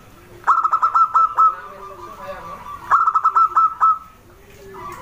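Zebra dove (perkutut) cooing: two phrases of rapid, clipped notes about two and a half seconds apart, each ending in a drawn-out note.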